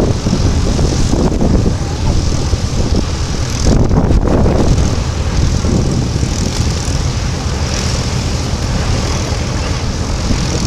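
Fairey Swordfish biplane's propeller-driven radial piston engine running steadily in flight, a low continuous drone.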